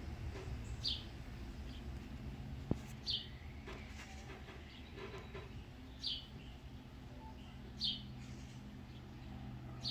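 A songbird repeating a single short, falling chirp about every two to three seconds, over a steady low hum, with one sharp click a little under three seconds in.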